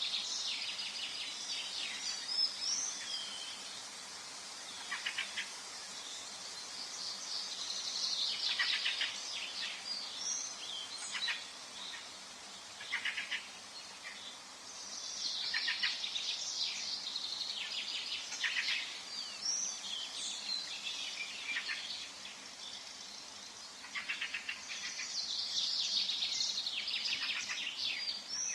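Forest ambience of songbirds singing and chirping, in bursts of rapid twittering every several seconds over a soft steady background hiss.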